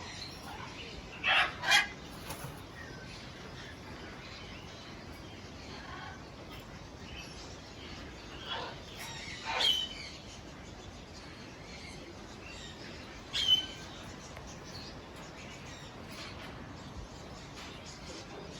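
Aviary birds calling: a few short, sharp calls, two close together about a second in, more around eight to ten seconds and one near thirteen seconds, over a steady low background hiss.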